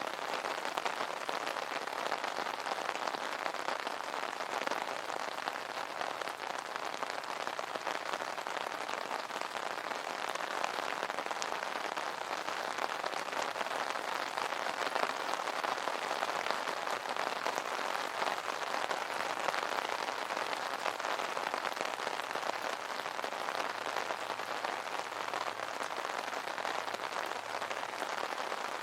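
Steady rain falling on an umbrella: a dense, even hiss of many close drop hits.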